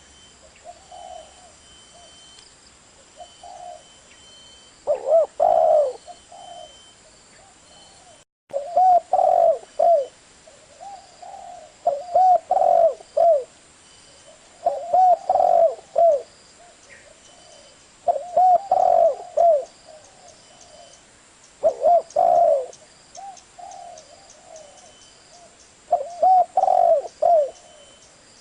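Spotted dove cooing: a loud phrase of several low, rounded coos about every three seconds, with softer coos in between. The audio drops out for an instant about eight seconds in.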